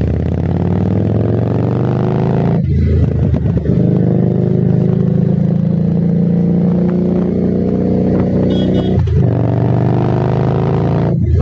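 Harley-Davidson Street 750's V-twin through a Vance and Hines aftermarket exhaust, pulling under acceleration while riding: the engine note climbs steadily, drops sharply at a gear change about two and a half seconds in, climbs for several seconds more, and drops again at two further shifts near the end.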